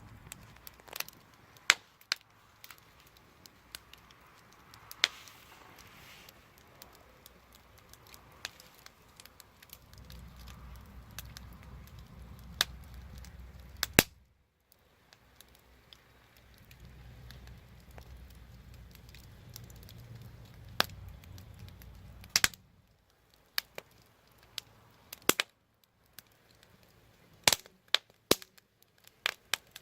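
Wood fire burning, crackling with irregular sharp pops and snaps of burning wood, some loud. A low rumble comes in twice and stops abruptly each time.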